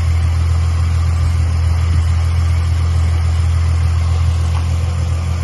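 Freshly swapped remanufactured engine in a 2005 Ford Mustang idling steadily, running on its first warm-up after being installed.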